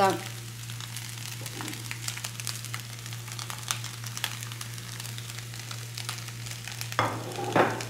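Minced beef frying in coconut oil in a pan: a soft, steady sizzle with scattered fine crackles. A brief louder sound comes near the end.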